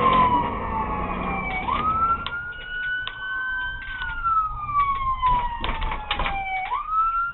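Police car siren wailing: its pitch sweeps up quickly about two seconds in, holds, then slides slowly down and sweeps up again near the end. Vehicle noise runs underneath, with scattered short clicks.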